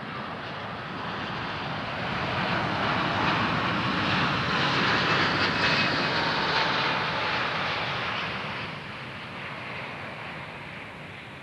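Boeing 787-9 airliner's jet engines passing on its landing approach. The rush of engine noise swells to a peak about halfway through, with a faint whine that dips in pitch as it goes by, then fades away.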